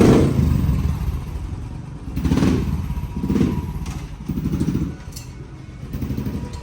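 Motorcycle engine running and being revved, rising and falling in several swells, the loudest right at the start.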